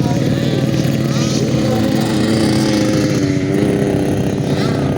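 Small two-stroke 65cc motocross bike engines revving on the track, pitch wavering up and down as the riders work the throttle.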